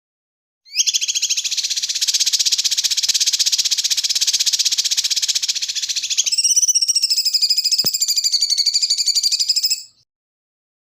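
A loud, high-pitched, very rapid buzzing trill from a recorded animal call used as masteran song-training material for white-rumped shamas. About six seconds in it changes to a pulsed, more tone-like trill, then stops abruptly.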